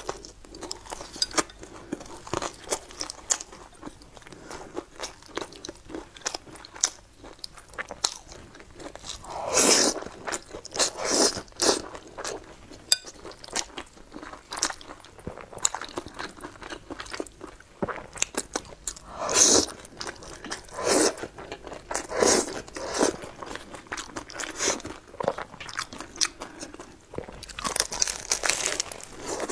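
Close-miked crunching and chewing of a crusty sesame flatbread, with repeated short crisp crunches and a few louder, longer mouth sounds about 10, 19 and 22 seconds in.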